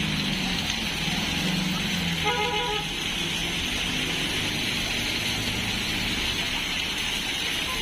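Heavy rain falling steadily, with a motor vehicle running in the street and a horn tooting briefly in short beeps a little over two seconds in.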